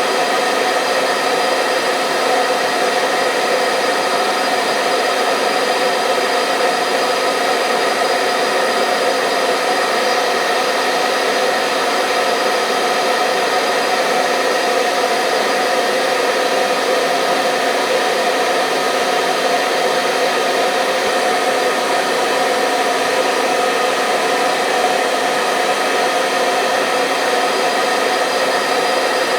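Hair dryer running steadily: a constant rush of blown air with a steady motor whine over it, unchanging.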